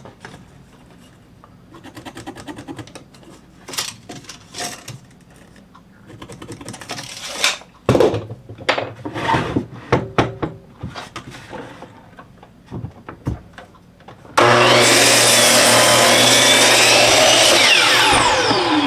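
Knocks and clicks of a 2x8 board being set in place, then about two-thirds of the way in an electric miter saw starts abruptly and runs loud and steady through the cut. Near the end a falling whine comes as the blade winds down.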